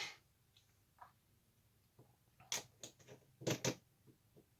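A scattering of small, sharp clicks and taps, about seven, loudest a little past halfway: a model kit and modelling tools being handled and put down on a workbench.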